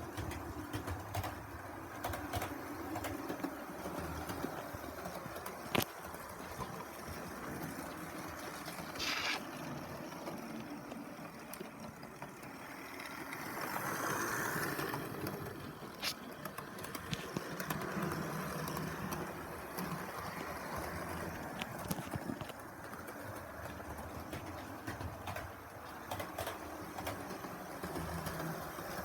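Model train running on the layout's track: a steady motor and wheel rumble with scattered sharp clicks from the wheels on the rails, swelling louder for a few seconds about halfway through.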